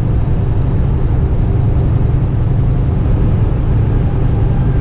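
Steady low drone of a semi-truck at highway speed heard inside the cab: engine and tyre noise on a wet road, with no changes.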